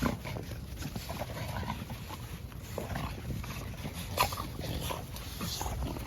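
American bully dogs making dog sounds while roughhousing with each other, with a short sharp sound about four seconds in.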